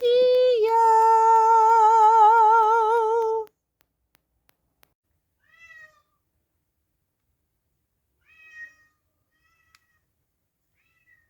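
A long, loud meow-like call held on one wavering pitch, cutting off about three and a half seconds in, then three or four faint, short meows.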